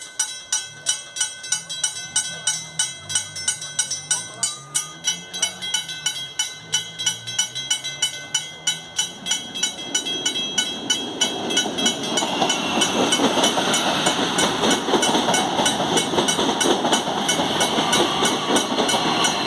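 A rapid, regular ticking, about four a second, with some low wavering tones. From about halfway in, the rumble of a CPTM electric commuter train comes in and grows louder as it approaches.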